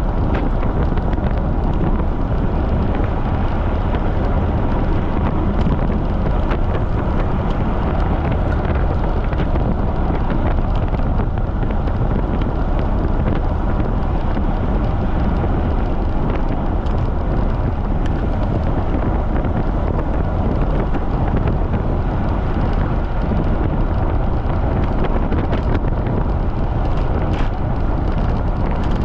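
Wind buffeting the microphone of a camera riding on a moving bicycle in strong wind: a steady, loud noise heaviest in the low end.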